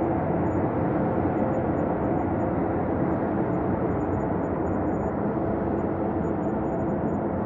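Space drone ambience: a steady, low, dense drone with faint held tones in it and no distinct events.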